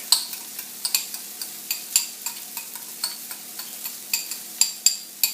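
Mushrooms frying in a sauté pan: a steady sizzle broken by sharp, irregular clicks.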